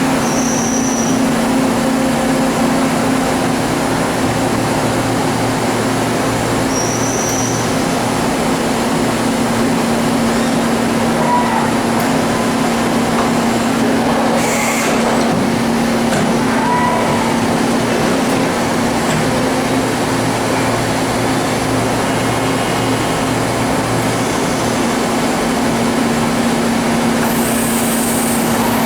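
Kuraki KHM-125 CNC horizontal machining center running under power: a steady mechanical hum with a strong low tone, unchanging throughout.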